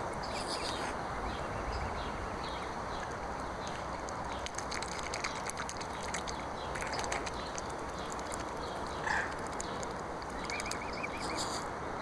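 Waterfowl feeding at the water's edge over a steady rushing background: many small clicks and splashes, one short call about nine seconds in, and a quick run of high peeps near the end.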